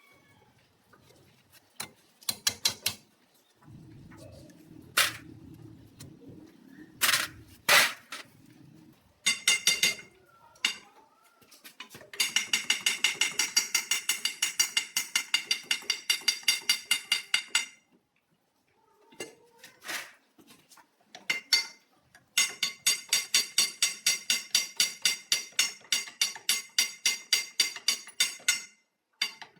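Hammer striking metal in two long runs of quick, even blows, about five or six a second, each blow ringing. Scattered single knocks come before them.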